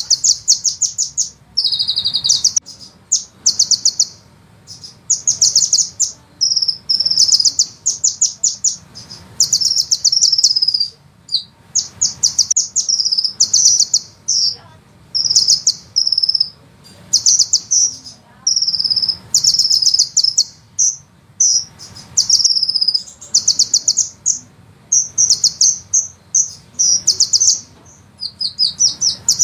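Sunbird singing: rapid, high-pitched rolling trills in phrases of a second or two, separated by short pauses and repeated over and over.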